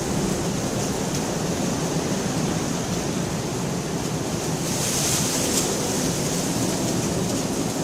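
Steady rain falling, an even hiss with a brief swell in the higher hiss about five seconds in.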